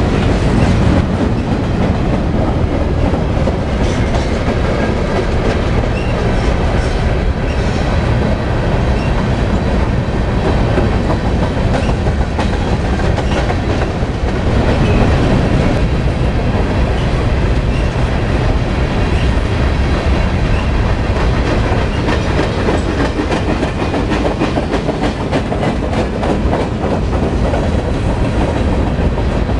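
Freight train cars (covered hoppers and boxcars) rolling past close by: a steady low rumble with rapid, continuous clicking of steel wheels on the rails.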